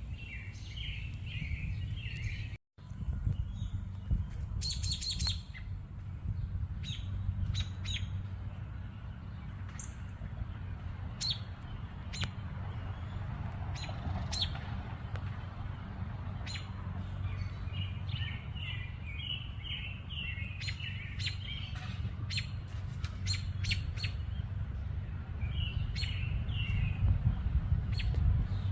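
Birds chirping in clusters of quick, short high notes, with scattered sharp ticks and a steady low rumble underneath.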